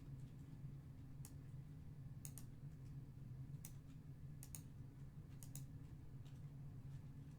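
Faint, scattered computer keyboard and mouse clicks, some in quick pairs, over a low steady hum.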